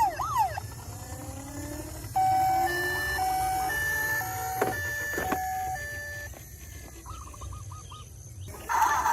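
Toy emergency vehicle siren: a wailing siren cuts out just after the start, then a two-tone hi-lo siren alternates between a high and a low note for about four seconds. A short quick warble follows, and a louder noisy sound starts near the end.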